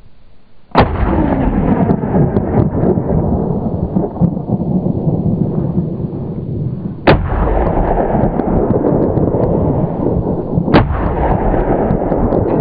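Three gunshots at a boar hunt, sharp cracks about a second in, at about seven seconds and near eleven seconds. A loud, continuous rumbling noise sets in with the first shot and runs on under the others.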